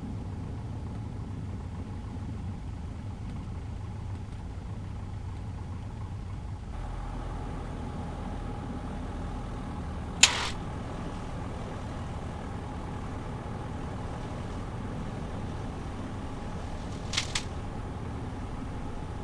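Cessna 150's Continental O-200 four-cylinder engine running steadily at low power after landing, a low hum that shifts slightly about seven seconds in. A short sharp click about ten seconds in, and two quick clicks near the end.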